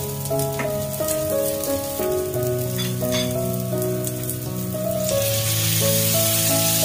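Garlic, ginger and green onion sizzling in oil in a skillet, stirred with chopsticks with a few light clicks; about five seconds in the sizzle jumps to a loud, steady hiss as cut squid is tipped into the hot pan. Background music plays over it.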